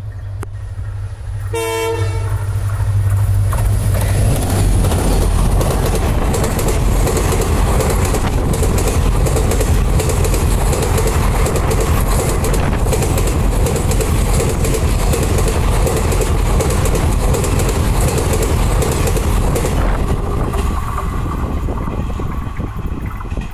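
Diesel-hauled Mastyagandha Express: a short locomotive horn blast near the start, then the express passes close at speed with loud rumbling and rapid wheel clicks on the rails. The noise fades near the end as the last coaches go by.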